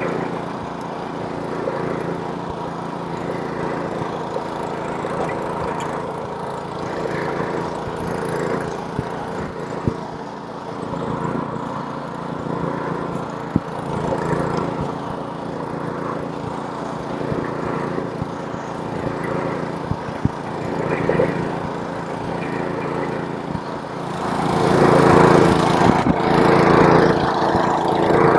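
Snowblower's small engine running steadily under load as it clears snow, with the rushing hiss of snow being thrown. It grows louder and harsher near the end.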